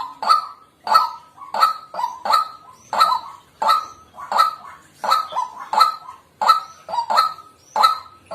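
White-breasted waterhen calling: a steady, unbroken run of short, loud call notes, about one and a half a second, many of them in close pairs.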